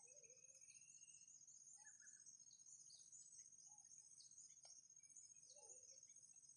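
Faint insects trilling steadily at a high pitch, with short falling bird chirps scattered throughout and a few soft low calls.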